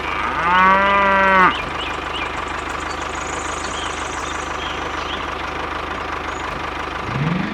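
A tractor engine idles steadily with an even low pulse. About half a second in, a cow gives one moo lasting about a second.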